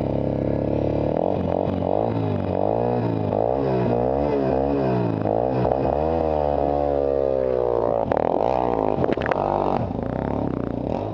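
Yamaha WR250R's single-cylinder four-stroke engine revving hard and unevenly, its pitch swinging up and down again and again as the dirt bike claws up a loose dirt slope from a standstill. A few sharp knocks and clatter come in about eight seconds in, and the engine note drops back near the end.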